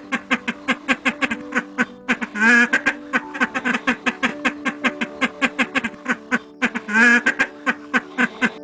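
Ducks quacking in a fast, even run of short calls, about five or six a second, with two louder quacks, one about two and a half seconds in and one near the end.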